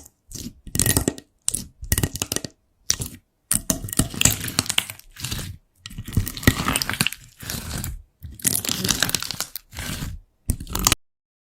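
Slime being squeezed and pressed by hand, crackling and popping in a string of short bursts split by sudden silences.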